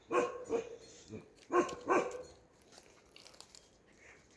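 A dog barking: four short barks in two pairs, then quiet.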